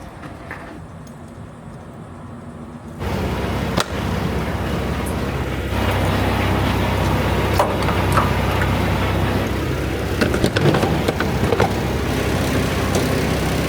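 Diesel semi-truck engine running steadily, cutting in abruptly about three seconds in and getting louder around six seconds, with scattered clicks and knocks over it.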